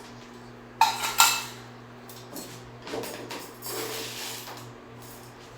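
Two sharp, ringing clinks of a bird's feeding dish being knocked, a few tenths of a second apart, about a second in, followed by softer scraping and rattling.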